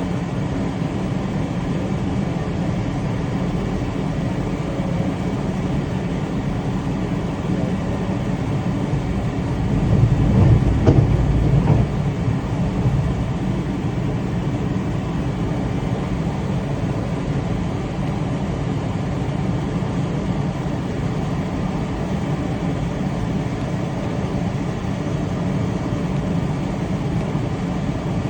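Train running along the track with a steady low rumble, swelling louder for about two seconds around ten seconds in.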